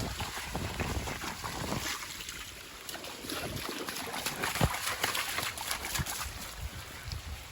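Rain falling with many small drop hits and a steady hiss. Wind buffets the microphone with a low rumble for about the first two seconds.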